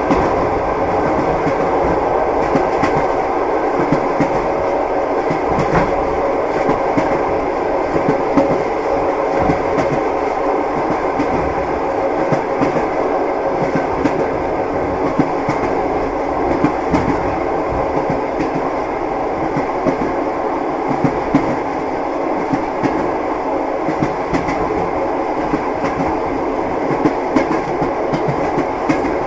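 Train wheels knocking over rail joints, heard from inside a moving passenger carriage: a steady rumble with the clickety-clack of short, unevenly spaced knocks.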